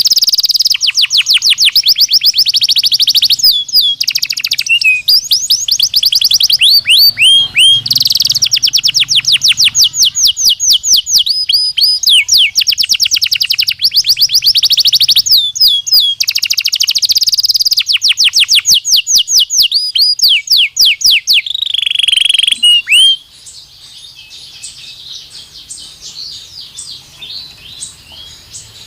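Belgian canary singing: long, fast trills of repeated sweeping notes, loud and high, broken by short pauses. About 23 seconds in, the loud song stops and only faint, soft twittering is left.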